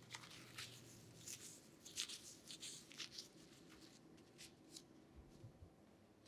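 Faint, brief rustles and snips of hair being worked by a barber during a haircut, a quick run of them in the first few seconds, then fewer and farther apart.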